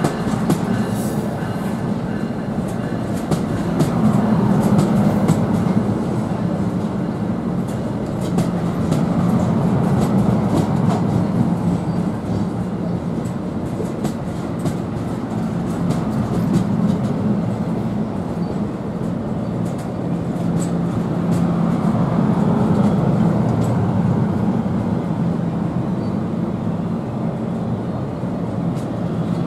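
A commuter train rolling through a station, with a steady low rumble and its wheels clicking over rail joints, the clicks thickest in the first half.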